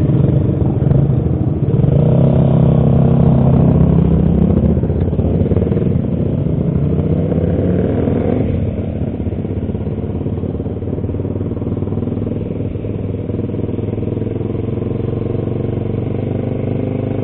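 Honda CBR150R's single-cylinder engine running as the motorcycle is ridden along, the engine note rising through the revs from about six seconds in, then falling back to a steadier note.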